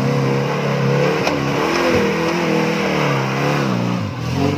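Engine of a small off-road 4x4 revving under load as it climbs through a deep mud rut; the revs rise and fall repeatedly as the throttle is worked.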